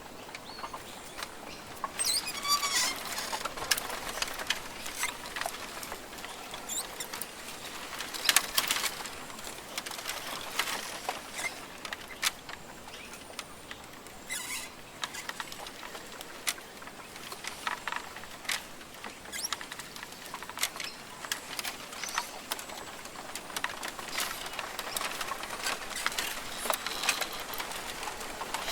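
Rainforest ambience: a steady hiss with many irregular sharp ticks and taps, and a short bird call about two to three seconds in.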